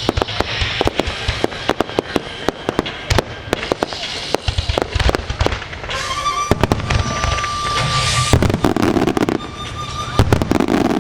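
Starmine fireworks display: rapid, overlapping shell bursts and crackling, many reports a second, with no let-up.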